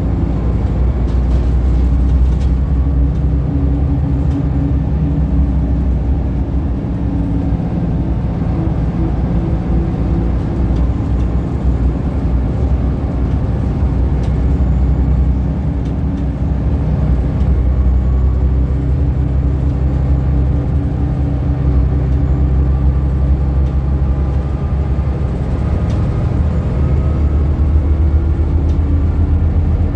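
Scania L94UB bus engine running as the bus drives, its pitch rising and falling with the revs.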